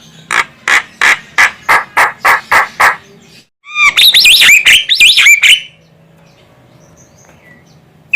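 Javan myna (jalak kebo) calling: a run of about eight short harsh notes, roughly three a second, then a louder burst of rapid, varied whistling chatter lasting about two seconds.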